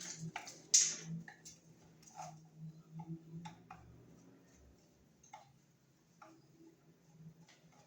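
Irregular sharp clicks and knocks of hand work on a wall: tools and pieces of sheetrock being handled around an outlet box. The loudest knock comes about a second in, then lighter scattered ticks grow sparser.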